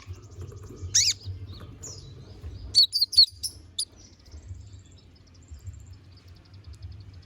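A konin (kolibri ninja sunbird) singing in high, rapid trills. About a second in comes one loud down-sweeping call, and a quick burst of sharp chirps follows around three seconds in. A steady low hum lies underneath.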